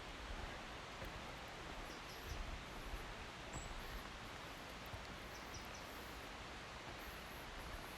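Forest ambience: a steady even hiss with soft low bumps. Faint short, high bird chirps come through a couple of times.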